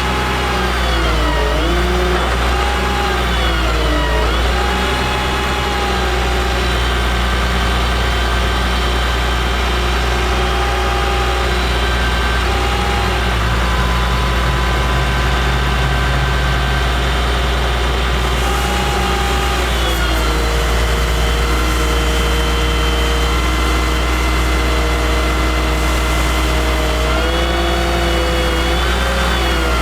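Caterpillar C7 diesel engine of a Ford F750 bucket truck running steadily, its speed dipping and recovering a few times and settling lower about two-thirds of the way through.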